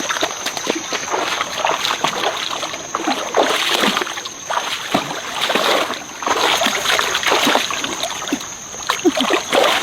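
Water splashing and sloshing in quick, irregular bursts, with a steady high-pitched tone running underneath.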